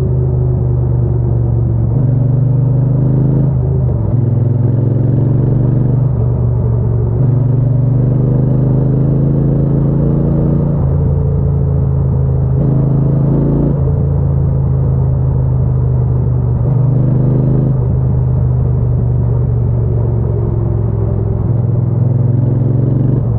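Triumph Bonneville T120's 1200 cc parallel-twin engine and exhaust under way, pulling through the gears. The pitch climbs in each gear and drops back at each shift, every two to four seconds or so.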